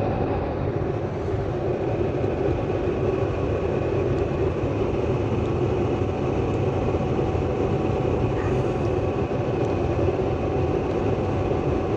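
Furnace blower running with a steady hum and a few faint steady whining tones.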